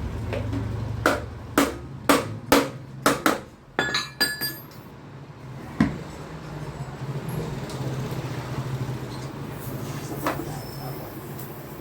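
Hammer strikes on a metal scooter exhaust: six sharp blows about half a second apart, then a few ringing metallic clinks and one more knock, with a steady low hum underneath in the second half.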